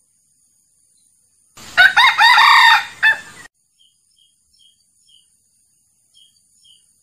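A male jungle fowl crows once, loud and lasting under two seconds.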